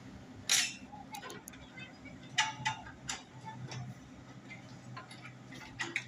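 Motorcycle engine idling through an aftermarket exhaust with a steady low note, which the uploader likens to a Yamaha RX-King's. A few sharp clicks or pops sound over it, one about half a second in, two a little past the middle, and one near the end.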